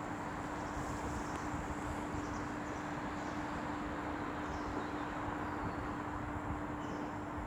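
Steady outdoor background rumble and wind noise with a constant low hum running through it.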